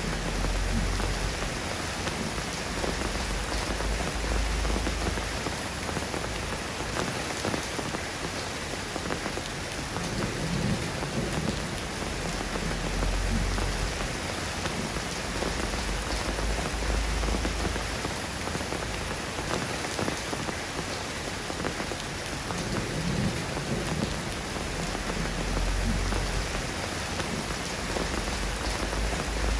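Steady rain falling in an even, dense hiss of drops. A low rumble swells up for a second or two every few seconds underneath it.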